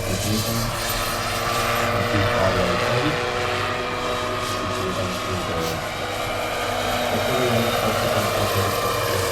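Large turbine-powered scale model helicopter (Agusta AW109 K2) running steadily, its turbine whine over the rotor noise.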